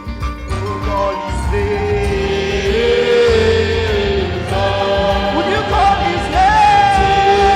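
Choir singing a Yoruba gospel worship song in harmony, with long held notes that slide between pitches, over a band accompaniment with a steady low beat.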